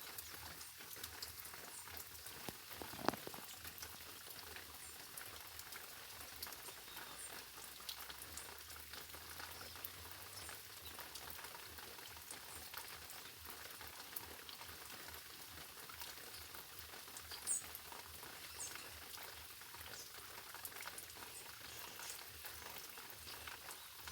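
Fine spray of water pattering steadily like light rain, with occasional short, high bird chirps over it and one sharp tap about three seconds in.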